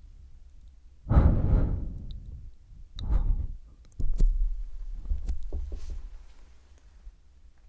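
Close-miked sounds made right on a microphone: two loud whooshing swells, about a second and three seconds in, each fading away, then a sharp knock just after four seconds and softer scratchy rustling.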